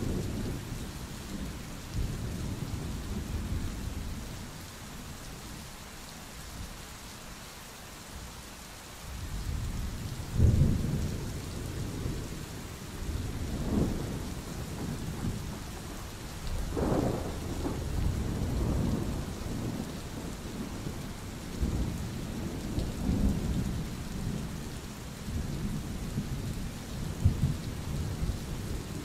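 Steady rain falling through a thunderstorm, with rolling thunder rumbling low and deep. The thunder eases off for a few seconds, then swells back in several louder rumbles and peals.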